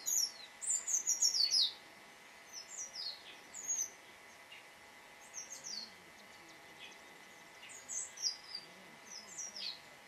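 Songbird chirping: groups of quick, high notes that each fall in pitch, a dense run in the first two seconds, then shorter phrases every couple of seconds.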